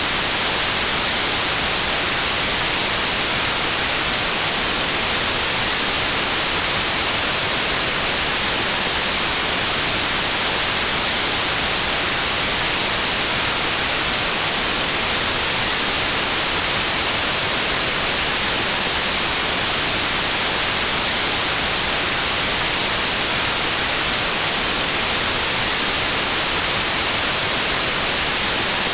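Steady, loud white noise: an even hiss that never changes.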